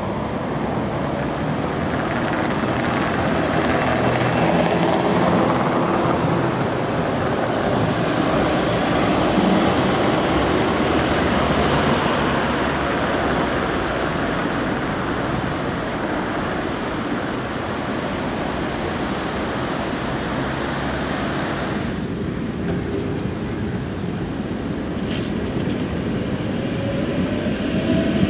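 City tram running on street track, a steady rolling rumble with rail noise. About three-quarters of the way through the sound changes abruptly to a quieter scene with a faint rising whine, which then grows louder again near the end.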